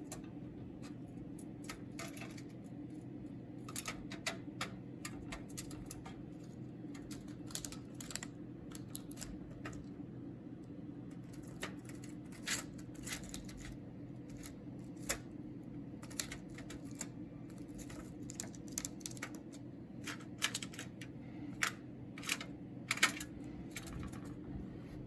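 Irregular light clicks and taps, sparse at first and more frequent in the second half, over a steady low hum.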